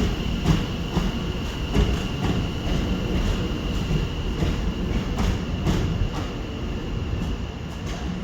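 Train moving at the station: a steady low rumble with a thin, steady high whine, and sharp clicks at irregular intervals.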